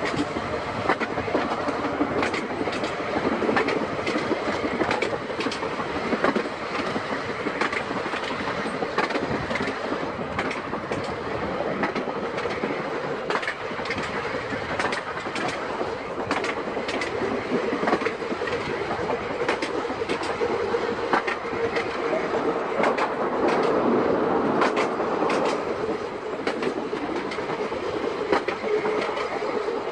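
Seaton Tramway narrow-gauge electric tramcar running along the line, its wheels clicking irregularly over the rail joints. A steady tone comes in after about twenty seconds.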